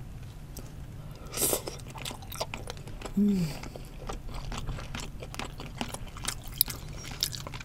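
Close-miked chewing of grilled salmon head flesh: many small wet mouth clicks and smacks. A short hummed voice sound comes about three seconds in.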